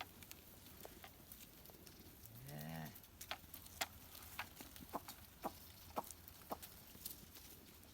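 A goat bleats once, a short wavering call about two and a half seconds in, amid scattered sharp clicks and snaps from the grazing herd.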